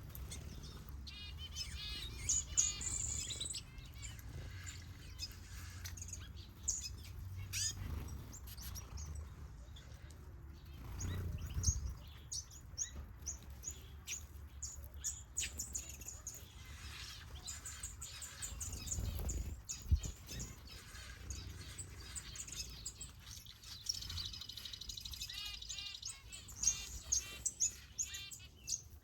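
Mixed aviary finches and softbills chirping and trilling, many short overlapping calls, over a low steady rumble.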